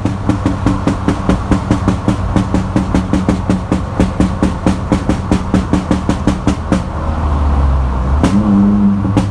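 Exhaust of a straight-piped, decatted Ford Fiesta 1.0 EcoBoost popping and crackling in a fast run of sharp bangs, about five or six a second, from its pop-and-bang tune. A deeper engine rumble swells near the end.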